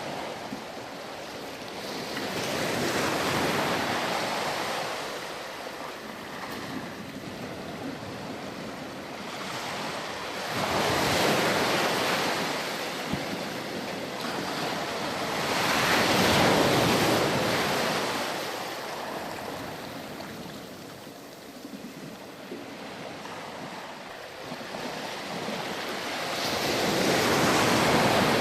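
Ocean waves breaking and washing up on a sandy shore, swelling and receding in slow surges about every five to six seconds, with four larger swells.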